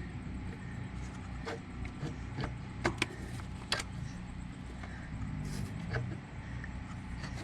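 A few short, sharp clicks and knocks of hand work under the hood, a vacuum line being pulled off the distributor, over a low steady hum.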